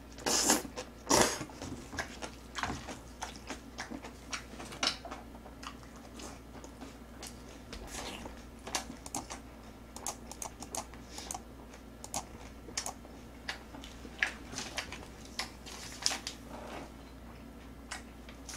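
Close-up eating sounds: a noisy slurp of black-bean noodles in the first second or so, then chewing with many small irregular wet clicks and smacks.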